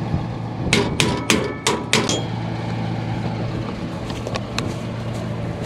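Hammer blows on steel while a broken sickle is worked out of a combine header: about six sharp, ringing metal strikes in quick succession about a second in, then a few lighter taps, over a steady low hum.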